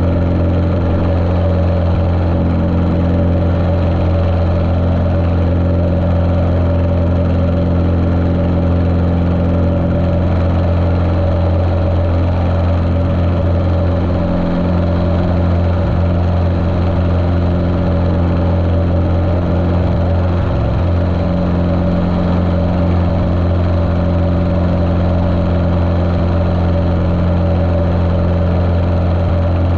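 Cessna 150L's Continental O-200 four-cylinder engine running steadily, heard muffled through a GoPro's waterproof case.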